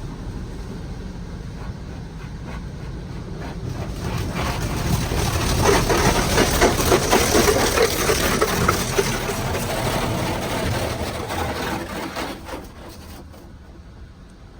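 Water from a HydroSpray in-bay automatic car wash spraying onto the car, heard from inside the cabin: a steady hiss that swells about four seconds in, is loudest for several seconds, then fades away near the end.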